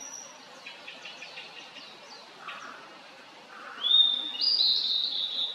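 Blue-and-white flycatcher singing. A few faint notes come first, then just under four seconds in a loud phrase begins with a rising note and runs on in high, clear notes.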